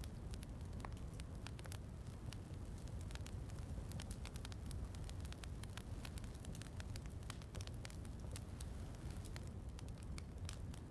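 Wood fire crackling in a fireplace: many small sharp pops and snaps over a steady low rumble.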